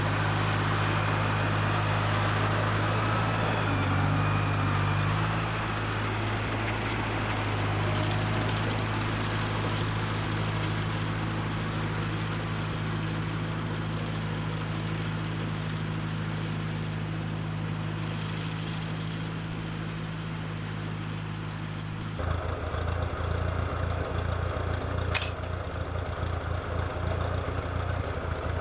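Tractor engine running steadily. About twenty-two seconds in, the sound changes abruptly to a rougher, lower engine note, with a brief high squeak a few seconds later.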